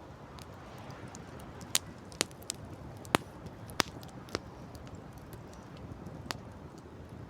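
Wood campfire crackling, with about seven sharp separate pops, the loudest about three seconds in, over a steady low rush of background noise.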